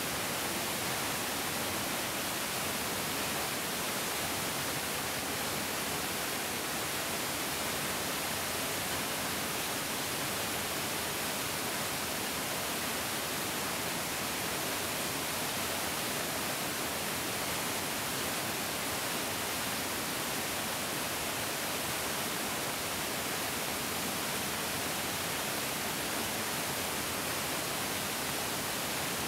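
Mountain stream rushing steadily: an even, unbroken hiss of flowing water, brighter than it is deep, with no changes or separate events.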